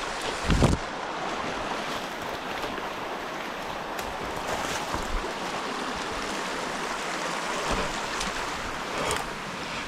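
A runner moving through forest, heard as a steady rushing noise with wind on the action camera's microphone. A loud thump comes about half a second in, and faint clicks are scattered throughout.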